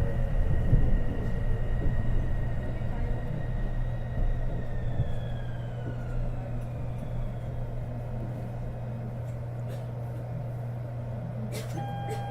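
Interior of a Kobe New Transit 2020-series rubber-tyred automated guideway train braking into a station: the motor whine falls in pitch and the running rumble eases as the car slows to a stop. Near the end the door chime starts, as the doors are about to open.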